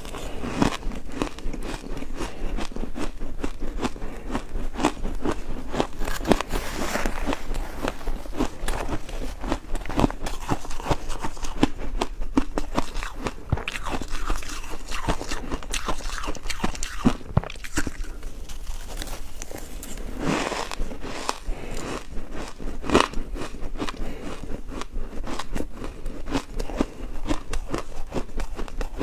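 Ice being bitten and chewed close up: a continuous run of irregular crunching and cracking, with a few sharper crunches standing out, one about seven seconds in and several between about twenty and twenty-three seconds in.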